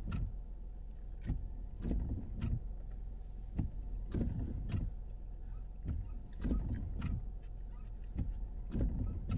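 Close-up chewing of a breakfast burrito: repeated short, wet mouth sounds at an uneven pace, over a steady low hum from the car.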